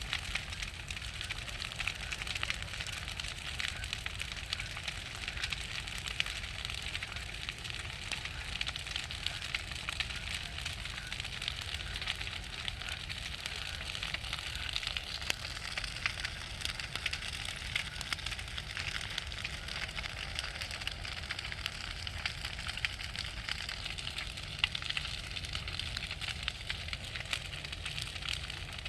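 Bonfire burning with a steady crackle of many small pops and snaps, over a low rumble.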